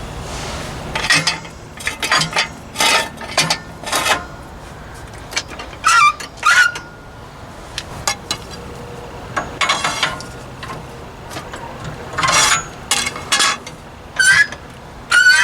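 Metal hand tools clinking and knocking against steel parts in a long series of short, irregular strikes. A few short squeaky high notes come in among them.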